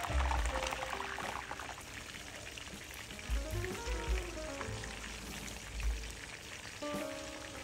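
Green plantain slices sizzling and crackling in hot vegetable oil, the crackle busiest in the first second or so. Background music with a melody and bass notes plays over it.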